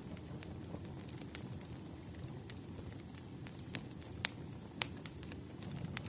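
Firewood burning and crackling: irregular sharp pops over a low steady rumble of the fire, with two louder pops a little past the middle.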